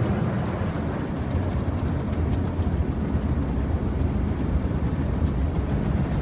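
Automatic car wash machinery running around the car, heard from inside the cabin as a steady low rumble.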